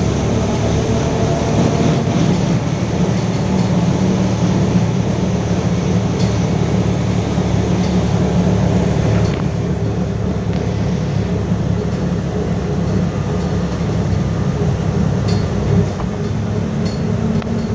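A LiAZ-5280 (VZTM) trolleybus in motion, heard from the passenger cabin: a steady hum from its DK-213 traction motor mixed with running and road noise. The higher part of the noise softens a little about halfway through.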